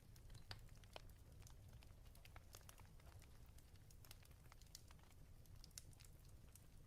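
Faint fireplace crackling: irregular small pops and snaps, several a second, over a low steady rumble.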